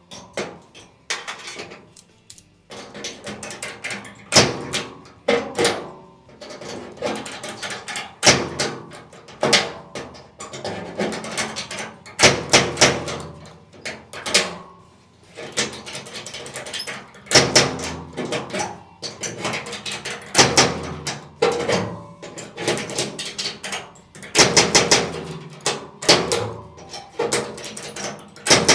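Sheet-metal bodywork on a truck's wheel arch: irregular metallic knocks and clanks with short ringing, coming in clusters of several a second.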